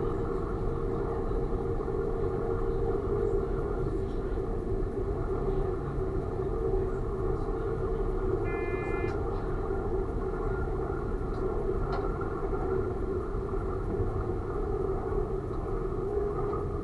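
Train running steadily, heard from the driver's cab: a constant drone over a steady running noise. About eight and a half seconds in, a short electronic beep lasting about half a second.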